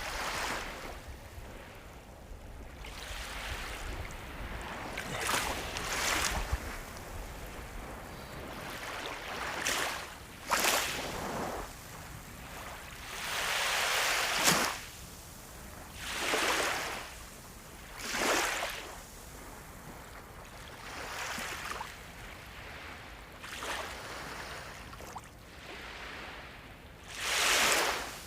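Sea waves washing in on the shore: a steady hiss with a separate surge of breaking surf every few seconds, one of the largest close to the end.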